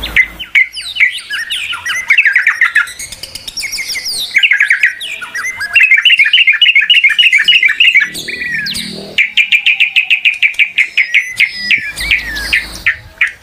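Songbird singing loud, fast chirping trills of rapidly repeated notes, in several phrases broken by short pauses.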